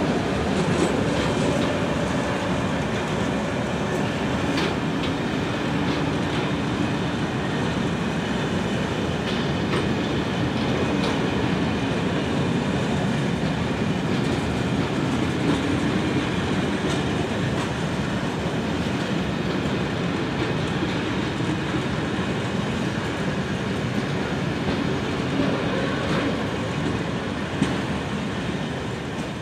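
Freight train of empty log wagons rolling past behind an electric locomotive: a steady rumble of steel wheels on the rails with scattered clicks, easing off slightly near the end.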